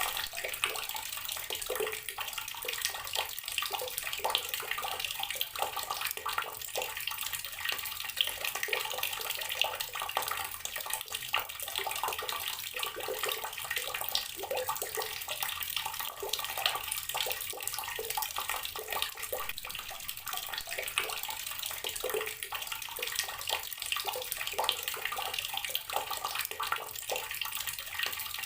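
Water tap running steadily, its stream splashing and spattering onto the ground below.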